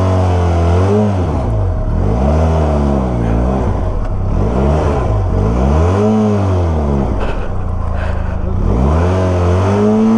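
Benelli TRK 502X's 500 cc parallel-twin engine revved up and down several times, each rev swelling and falling away, as the heavy bike struggles for grip in soft, loose dirt on a steep climb.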